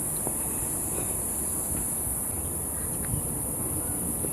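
Steady high-pitched chorus of insects, an unbroken shrill buzz, over a low rumbling background noise.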